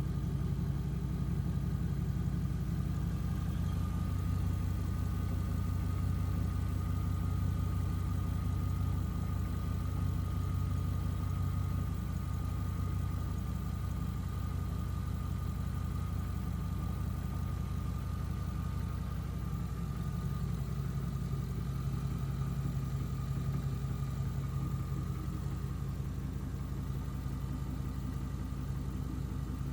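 A 2007 Chevrolet Avalanche's 5.3-litre LC9 V8 with 200,000 miles idling steadily, shown running for sale as a used engine.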